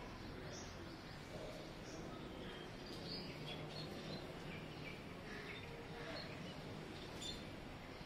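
Scattered short, faint bird chirps over a steady outdoor background hum.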